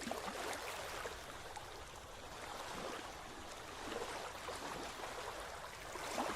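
A steady rushing, watery noise that swells gently a few times.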